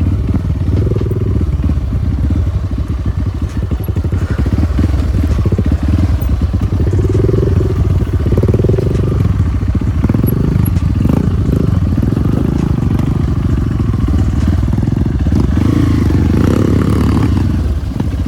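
Off-road trail motorcycle engine running under way, a dense, rapid pulsing with the engine note shifting up and down as it rides.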